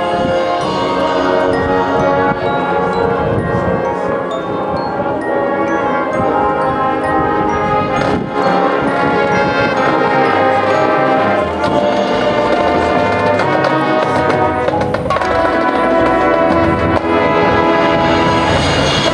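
High school marching band playing its show: brass and woodwinds holding sustained chords over drums, with bell-like mallet percussion ringing through.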